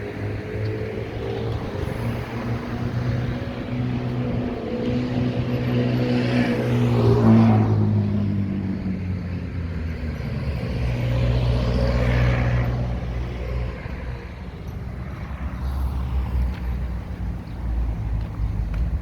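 Road traffic passing close by on a busy avenue: an engine's steady note grows louder and peaks about seven seconds in with tyre rush and a slight drop in pitch as it passes, and a second vehicle goes by about twelve seconds in, over a constant low traffic rumble.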